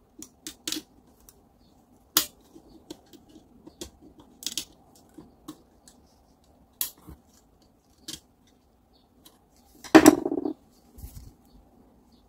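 Sharp, scattered clicks and taps of metal grinder parts and hand tools being handled on a workbench, with a louder clatter lasting about half a second near the end.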